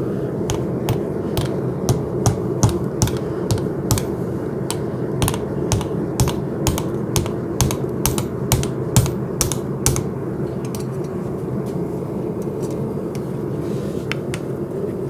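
Sharp metallic clicks and clinks, two or three a second and irregular, as a piece of steel coil spring is worked and pried open by hand. The clicks thin out to a few after about ten seconds, over a steady rushing background.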